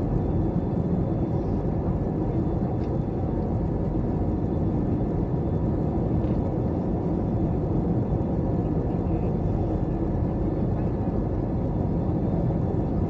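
Steady low cabin noise of a Delta Air Lines Airbus A321, heard from inside the cabin at a window seat. It is an even rumble without change.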